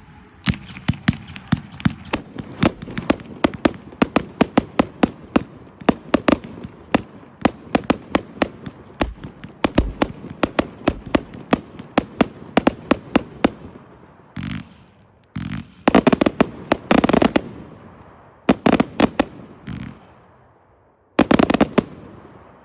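A 250-shot firework cake of hitters firing, a rapid string of sharp bangs several times a second. Near the end it breaks into a few louder, denser volleys with short pauses between them.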